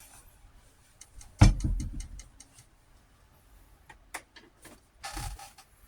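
A loud knock, then a quick rattling run of clicks for about a second; a few lighter clicks and a short scrape follow near the end.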